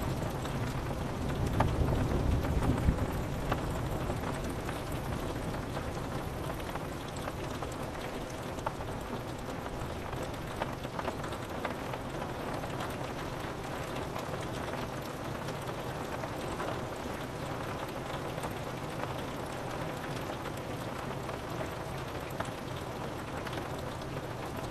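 Steady rain pattering on a window pane, with scattered drop ticks. A low rumble of thunder fades out in the first few seconds.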